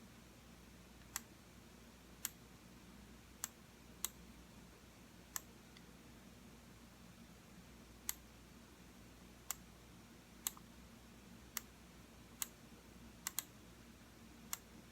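Computer mouse button clicking, single sharp clicks at irregular intervals, about a dozen in all with a quick double click near the end, over a faint room hiss.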